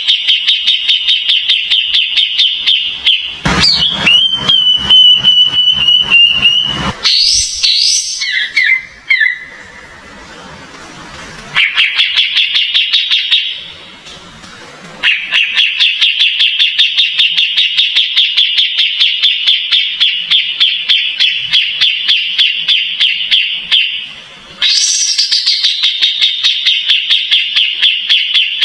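Kapas tembak songbird calling in a fast, even run of high chirps, about ten a second, repeated in long phrases with short breaks. One break, about four seconds in, holds a held high whistle among louder notes.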